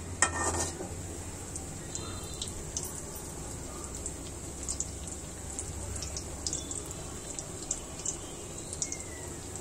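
Stuffed flatbread shallow-frying in hot oil in a pan on a low gas flame: a light steady sizzle with scattered small pops and crackles of spitting oil, and a brief louder clatter right at the start.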